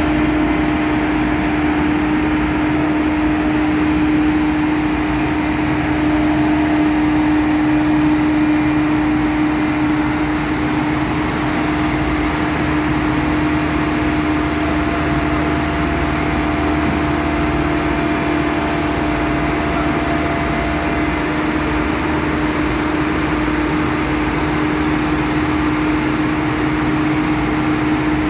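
Diesel engine of a Bomag vibratory roller running steadily at constant speed, a loud even hum with one strong unchanging tone.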